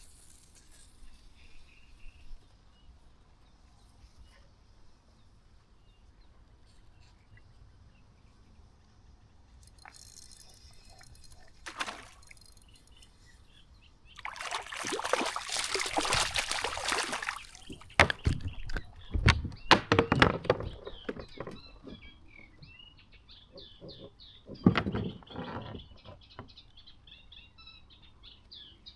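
Water splashing and sloshing for a few seconds, followed by a series of sharp knocks and thumps. Near the end, a bird sings a fast run of repeated chirps.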